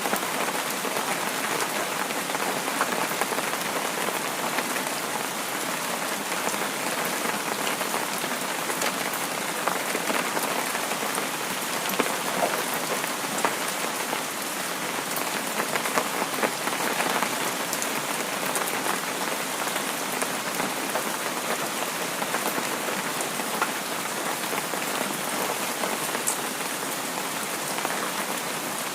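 Steady rain falling on a surface, a constant hiss dotted with the small ticks of individual drops.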